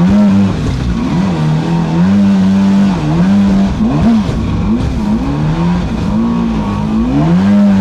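Small battery-powered boat's motor whining, its pitch swooping up and down again and again as the throttle is eased and opened.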